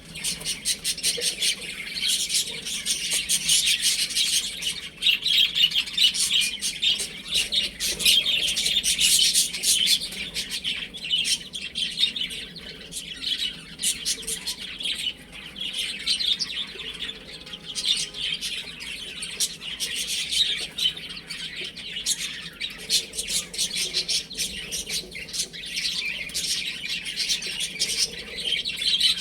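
A group of baby chicks peeping: many short, high chirps overlapping without a break.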